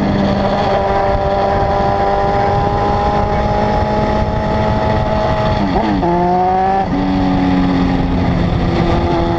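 Honda CB900F (919) inline-four motorcycle engine and exhaust under way, its note holding and creeping up slowly, then changing pitch sharply about six seconds in before settling again, over a dense rushing noise.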